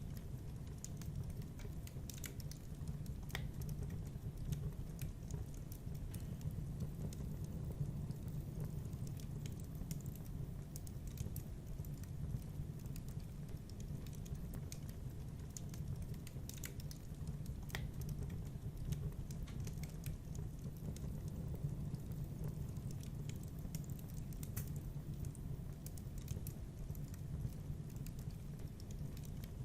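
Wood fire crackling in a fireplace: irregular sharp snaps and pops over a steady low rumble of burning.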